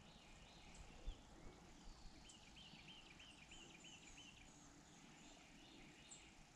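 Near silence with faint birdsong: a songbird repeating a short arched chirp about eight times in quick succession a couple of seconds in, with other scattered higher chirps. A single soft low bump about a second in.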